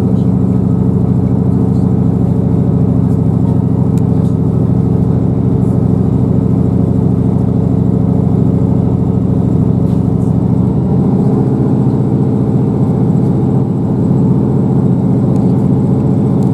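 Class 158 diesel multiple unit's underfloor diesel engine running steadily, heard from on board the train. About eleven seconds in, the deepest part of the engine note drops away.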